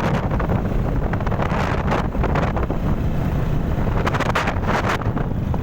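Wind buffeting the microphone: a steady heavy low rumble under a rushing hiss, with scattered crackles.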